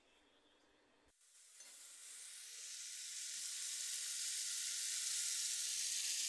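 Ground garlic-onion paste sizzling as it hits hot oil in an aluminium kadhai, starting about a second in and growing steadily louder as it is stirred.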